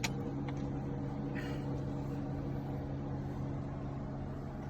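A click as the 1994 Toyota Supra's key is turned, then a steady electric hum with a low steady tone: a motor or fan in the car running with the ignition on, the engine not cranking.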